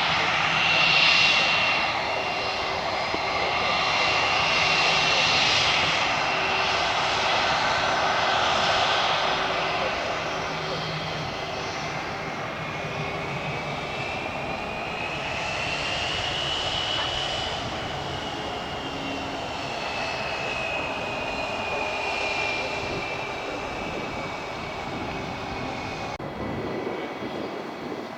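Jet airliner's turbofan engines running with a continuous roar and a high whine; about halfway through, the whine rises in pitch and then slowly falls.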